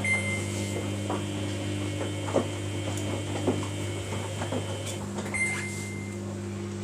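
Samsung washing machine's control panel beeping twice, a short high beep at the start and another about five seconds in, as its buttons are pressed, over a steady low electrical hum and a few faint clicks.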